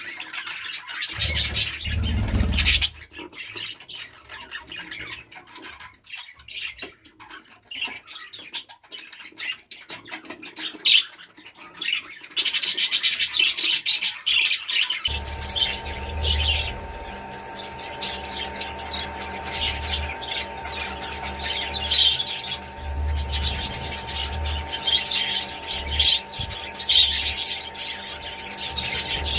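A flock of budgerigars chattering and squawking in quick, busy calls, thinning out briefly early on and busier again from about halfway. From about halfway a steady low hum runs underneath.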